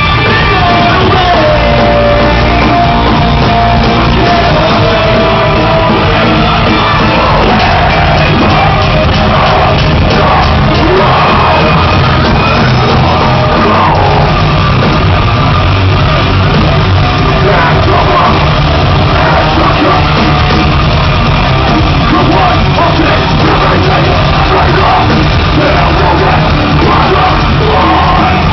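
Loud live rock music from a band on stage, with sung and shouted vocals over a heavy, steady low end, in a large hall.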